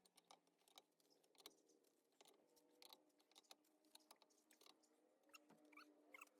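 Near silence with faint, scattered clicks, and a few faint bird chirps near the end.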